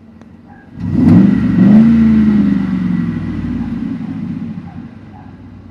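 High-mileage (220,000-mile) car engine heard from inside the cabin, blipped once from idle: the revs climb quickly about a second in, then slowly fall back to idle over the next few seconds.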